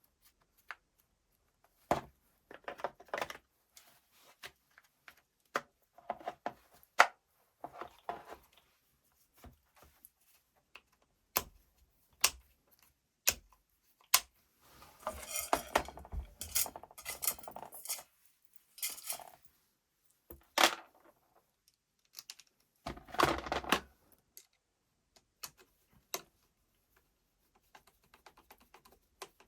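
Small metal parts and tools clicking, clinking and clattering as they are handled on a workbench, in scattered knocks with a few longer rattling bursts.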